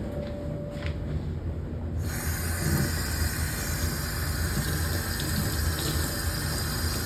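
Water starts running with a sudden, steady rush about two seconds in, over a low hum.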